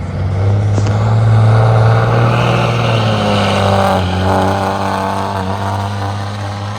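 Diesel engine of a pulling vehicle at full throttle under heavy load in a tractor pull. It comes up sharply at the start and holds a loud, steady drone, wavers in pitch three to four seconds in, and eases off slowly toward the end.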